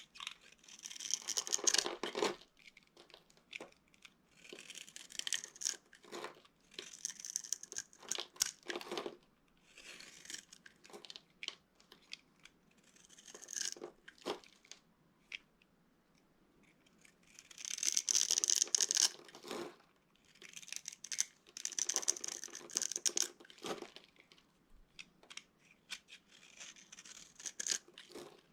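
Dry soap being cut and crushed, in crackling strokes of a second or two with short pauses between them; the loudest and longest stroke comes about two-thirds of the way through.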